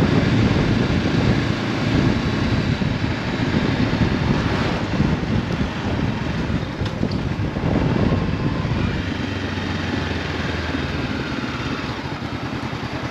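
Honda CB500F's parallel-twin engine through an Akrapovic exhaust, heard from a helmet mount with wind noise, riding and then slowing with the pitch falling. Near the end it settles into an even low beat.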